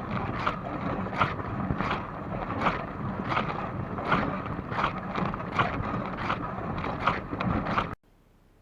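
Dishwasher running its wash cycle: water spraying inside the tub, with a swish that comes round about every three quarters of a second. It cuts off abruptly about eight seconds in, leaving only a faint hiss.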